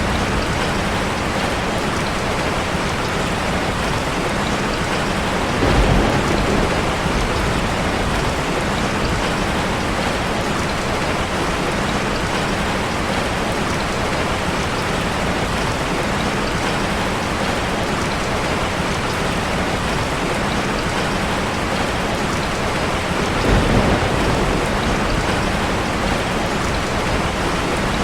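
Heavy rain falling steadily on a car, with a low roll of thunder about six seconds in and another near the end.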